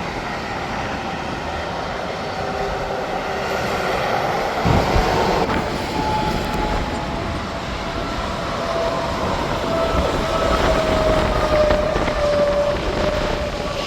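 Interstate highway traffic with semi trucks going by: steady tyre and engine noise, and a whine falling in pitch as one passes in the last few seconds.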